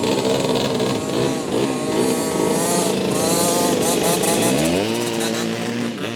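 Several café racer motorcycle engines racing on a dirt track, overlapping and revving up and down. About four and a half seconds in, one engine climbs sharply in pitch and holds a high, steady note.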